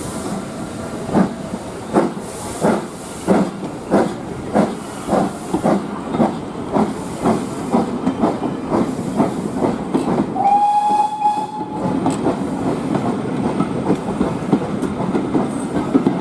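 Steam locomotive pulling away: exhaust chuffs that quicken from a little over one a second to about two and a half a second. A short whistle sounds about ten seconds in, then steady running noise.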